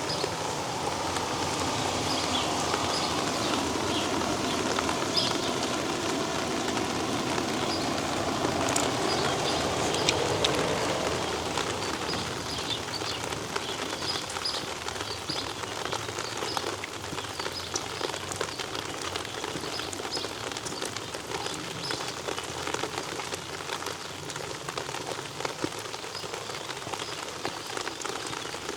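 Steady rain falling on hard surfaces, a continuous hiss that is fuller and louder for the first twelve seconds or so, then eases a little.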